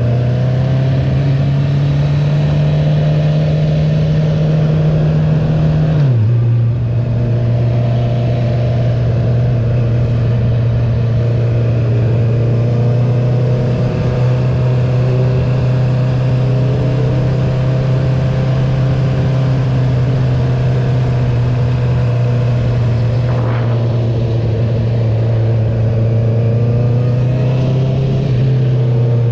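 Honda CB650R inline-four running through an Akrapovic full titanium racing exhaust with the dB killer removed. Engine pitch rises slowly under steady acceleration, drops sharply about six seconds in at an upshift, then holds at fairly steady revs while cruising.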